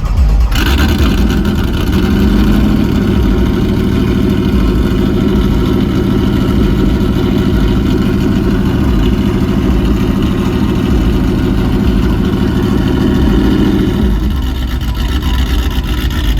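Car engine running loudly at a steady pitch, starting about half a second in and dropping away near the end.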